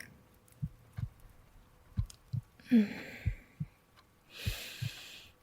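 Slow heartbeat heard close up as soft low lub-dub thumps in pairs, about one beat every second and a quarter, with a woman's soft breathing and a long exhale near the end.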